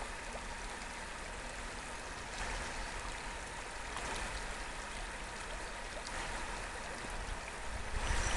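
Small stream flowing: a steady rush of running water.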